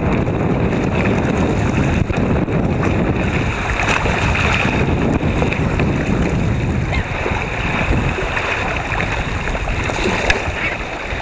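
Wind buffeting the microphone over sea water washing and splashing around a sea kayak, with a few short knocks and splashes.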